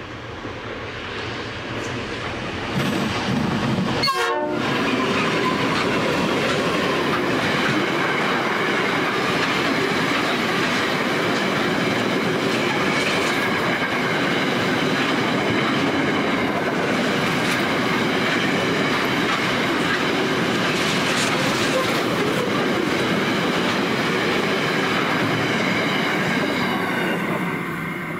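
Diesel-hauled container freight train, a G-class and an XR-class locomotive with 31 container wagons, passing close by. The locomotives' sound builds over the first few seconds, with a brief cut-out in the sound about four seconds in. Then comes a long steady run of wagons clattering over the rails, fading near the end as the last wagon goes by.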